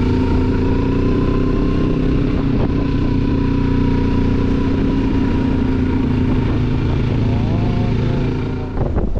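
Motorcycle engine running at a steady speed while riding, with a brief wavering in revs near the end before the engine note falls away and wind noise on the microphone takes over.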